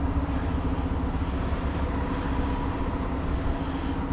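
Heavy truck's diesel engine idling steadily, a constant low drone.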